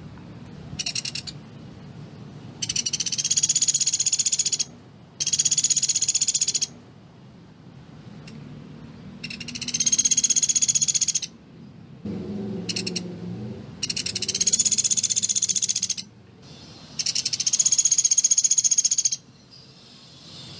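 Pelatuk beras woodpecker calling: a string of high, very rapid rattling trills, each lasting about two seconds, repeated with short gaps between them.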